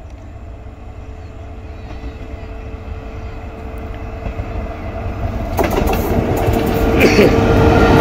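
Indian Railways WAP-4 electric locomotive and its train approaching at speed. The rumble of wheels on rail builds steadily, then turns into a loud clatter with sharp clicks from about five and a half seconds in, as the locomotive reaches and passes close by.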